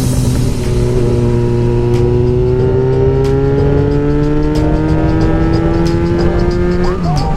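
Yamaha FZ6R's inline-four engine through an M4 aftermarket exhaust, pulling under way with its pitch rising slowly for about six seconds, then dropping sharply near the end.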